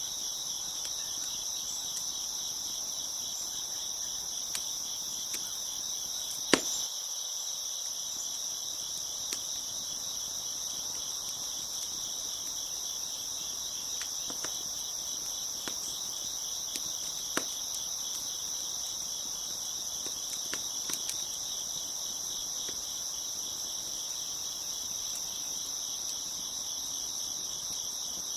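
Crickets chirping in a steady, dense chorus, with scattered pops and crackles from a wood fire; the loudest pop comes about six and a half seconds in.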